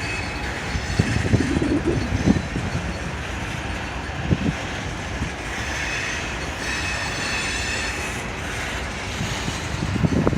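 Norfolk Southern freight cars rolling past on the rails: a steady rumble broken by irregular clanks and knocks, with a thin high wheel squeal about six to eight seconds in.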